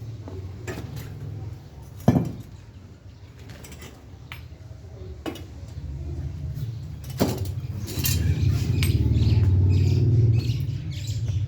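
Metal bicycle parts and tools knocking and clinking as they are handled during assembly, with a sharp knock about two seconds in the loudest, over a low rumble that grows louder near the end.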